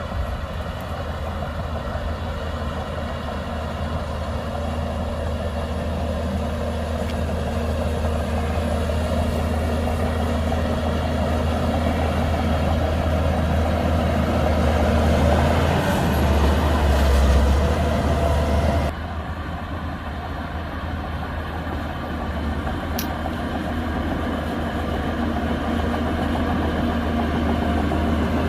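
Shantui DH17C2 bulldozer's diesel engine running steadily, slowly growing louder, then dropping suddenly in level about two-thirds of the way through before building again.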